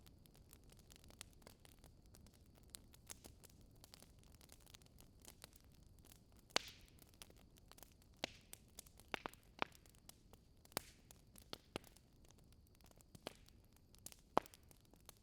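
Wood fire crackling: irregular sharp pops and snaps over a faint low hiss. The loudest pops come about six and a half seconds in and again near the end.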